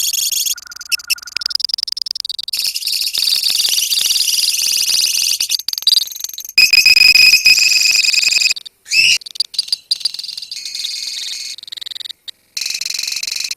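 A colony of lovebirds chirping and trilling: dense, high-pitched rapid chirps and buzzy trills from many birds at once. The sound comes in sections that cut off abruptly a couple of times.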